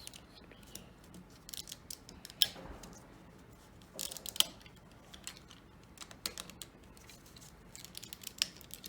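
Plastic LEGO bricks being handled, with irregular sharp clicks and light rattles as pieces are taken off and fitted; the loudest clicks come about two and a half, four and a half and eight and a half seconds in.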